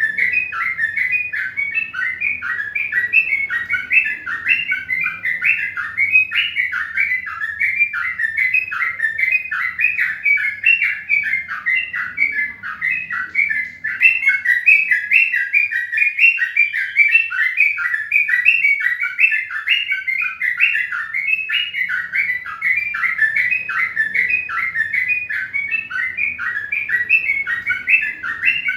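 Small birds chirping continuously in a dense chatter of short calls, several a second, over a faint low hum.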